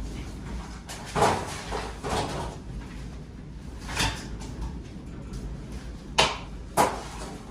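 A few hard clunks and knocks of objects being handled: one near the start, one about halfway, and two close together near the end, over a steady low rumble.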